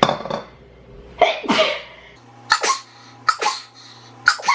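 A woman sneezing again and again, about five sharp sneezes in quick succession, several of them in two quick bursts. She takes it for the start of an illness.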